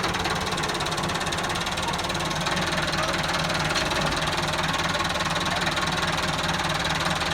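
An engine running steadily at an even speed, its firing pulses regular throughout.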